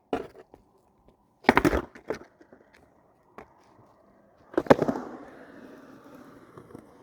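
Skateboard on the ground: a loud smack of the board about one and a half seconds in, a lighter knock, and another hard smack about two-thirds of the way through, after which the wheels roll steadily.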